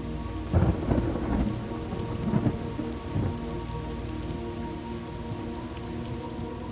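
Thunderstorm ambience: steady rain with a crackling rumble of thunder about half a second in, lasting about a second, then a second, shorter crackle of thunder a couple of seconds later.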